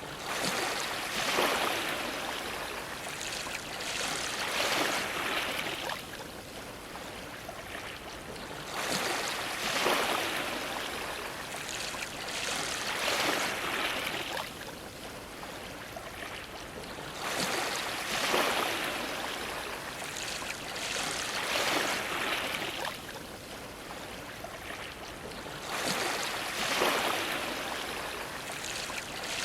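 Ocean waves washing against a dock, surging in about every eight or nine seconds. Each surge is a splashing hiss that builds, breaks up into a few smaller splashes and ebbs away.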